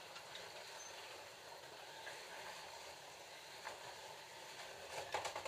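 Slot cars running on a plastic track: a steady whir of their small electric motors and guide pickups, with a quick cluster of sharp clicks near the end.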